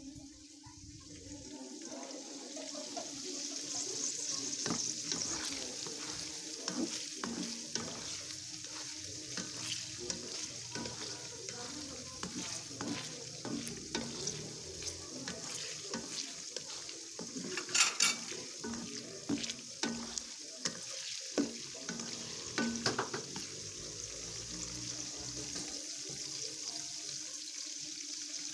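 Tofu cubes deep-frying in a wok of hot oil, sizzling steadily, with scattered sharp clicks and knocks that are loudest about two-thirds of the way through.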